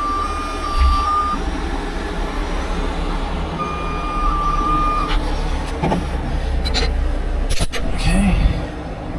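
Heavy truck's engine running with a vehicle backup alarm beeping in two spells, the second stopping about 5 seconds in. A few sharp metal clanks follow near the end.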